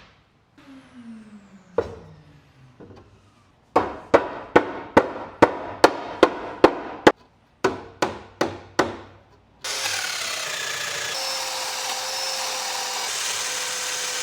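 Cabinet assembly with Domino-jointed wooden parts: a long falling whine, then a run of sharp wooden knocks at about two to three a second, then a power tool starting about two-thirds of the way through and running steadily.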